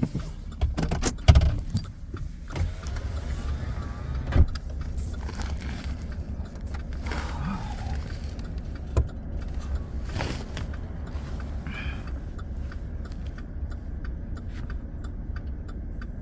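Truck engine idling with a steady low rumble, with several sharp knocks and light clicks and clatter from things being handled.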